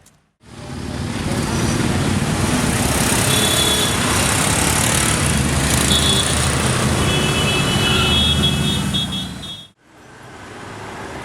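Loud car engine and traffic noise, starting suddenly about half a second in and cutting off abruptly near the end.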